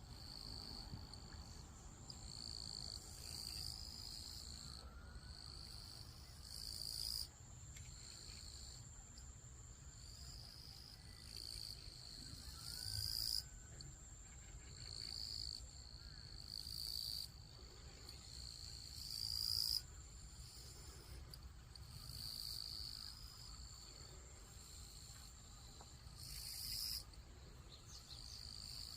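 A chorus of frogs calling: high-pitched calls repeat throughout, and about five times they swell into louder bouts of a few seconds that cut off suddenly.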